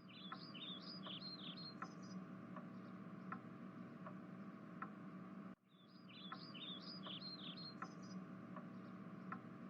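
Faint looping ambience track: a quick run of high bird chirps, which starts over about six seconds in, above a steady low hum and soft ticks about once a second.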